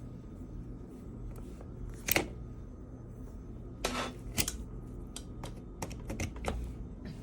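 Scattered sharp clicks and light knocks, loudest about two seconds in and bunched around four seconds, over a steady low hum.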